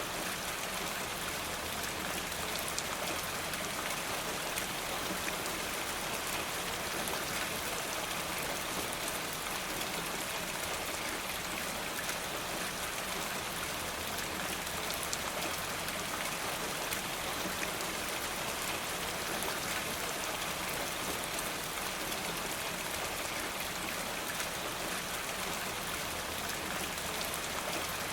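Steady rain falling, with fine scattered drop ticks.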